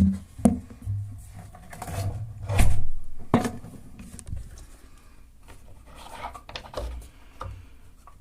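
Knocks and clunks of a cabinet door or hatch being shut and secured so it cannot swing open, with a heavier thump a little under three seconds in.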